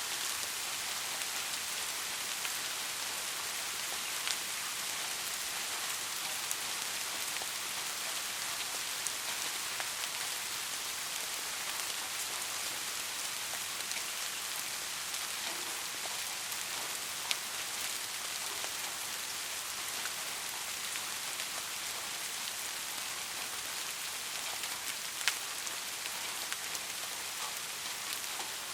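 Steady rain falling, an even hiss with now and then a single louder drop ticking close by.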